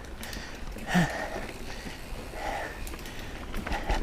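A mountain biker breathing hard after exertion, heavy breaths about every one and a half seconds, one with a short voiced exhale about a second in.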